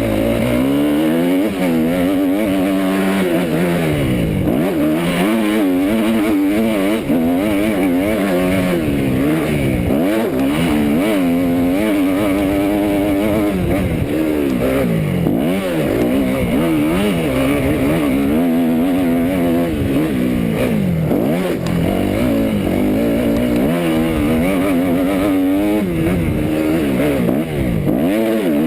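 250 cc four-stroke motocross bike engine heard onboard, revving hard and dropping off again and again as the rider accelerates, shifts and backs off for corners and jumps.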